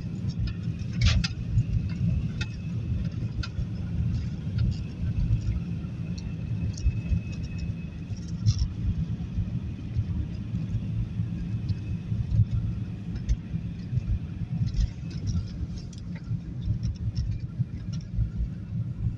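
Toyota Corolla Verso D-4D diesel engine running steadily, a low rumble with scattered light clicks.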